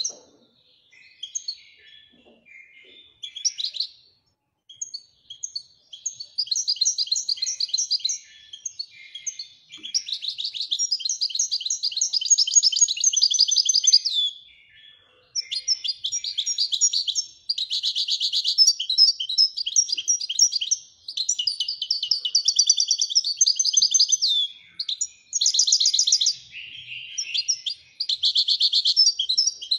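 European goldfinch singing in the Moroccan 'Weidani' song style: long runs of fast, high trills and twitters. The first few seconds are sparse, then the song comes in long phrases broken by short pauses.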